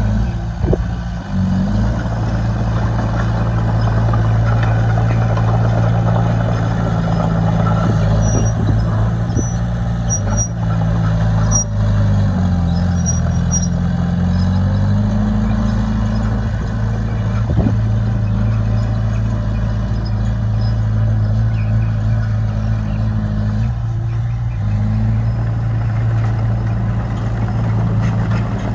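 Bulldozer's diesel engine running steadily. Its pitch sags and recovers over a couple of seconds about twelve seconds in, just after two sharp clanks.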